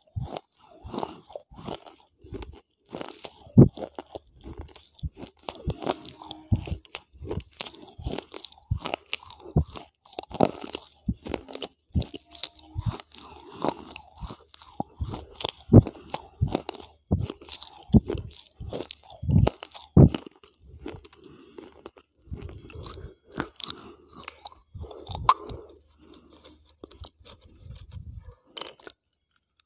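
A person chewing brittle grey chips with the microphone held right at the mouth: close, sharp, irregular crunches, dense at first and sparser in the last third, with a short pause near the end.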